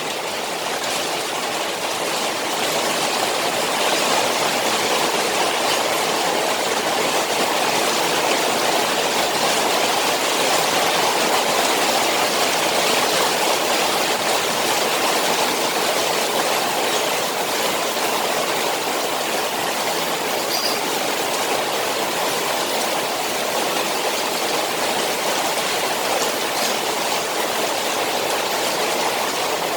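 Rain falling steadily on a koi pond, a dense, even hiss of drops on the water.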